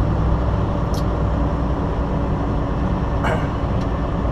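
Semi truck's diesel engine running steadily, heard from inside the cab, with two short ticks about a second apart and three seconds in.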